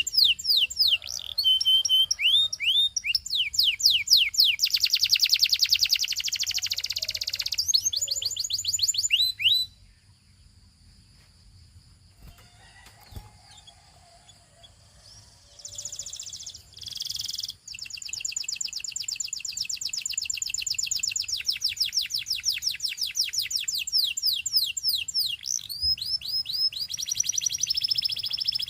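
Gloster canary singing in long, rapid trills of quickly repeated sweeping notes. The song breaks off about a third of the way in for several seconds, gives two short phrases, then resumes its fast rolling trill to the end.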